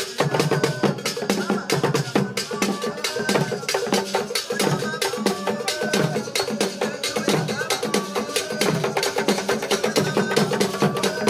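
Percussion-led music: drums and sharp, wood-block-like clacks in a fast, dense, unbroken rhythm, with short pitched lines sounding above.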